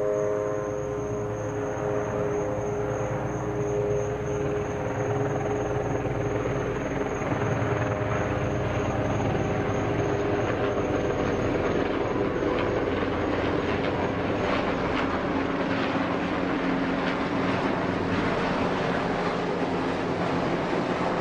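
Helicopter flying overhead: a steady, loud drone of rotor and engine noise that starts abruptly and holds through.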